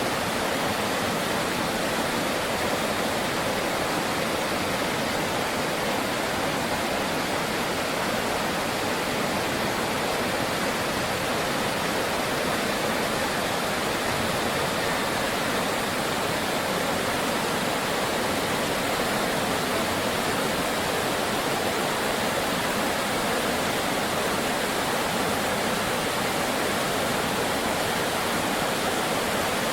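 Steady rushing of fast, high water in a river swollen by heavy rain.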